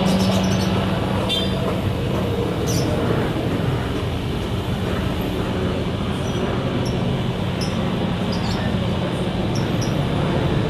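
Steady engine noise with a constant low hum and no clear rhythm, running evenly throughout.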